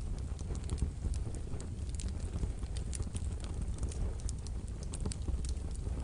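Wood fire burning in a wood-burning stove: irregular crackling and popping over a steady low rumble of the flames.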